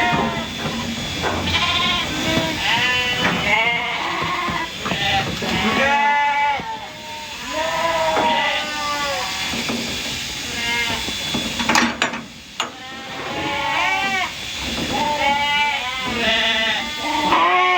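Sheep bleating again and again, calls overlapping one another, with a sharp click about twelve seconds in.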